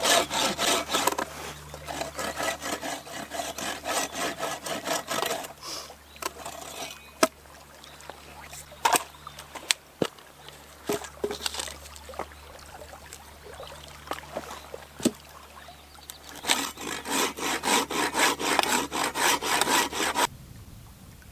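A hand saw cutting wood in quick, even strokes, about four a second. Sawing pauses in the middle for scattered sharp knocks and cracks, then resumes and stops abruptly near the end.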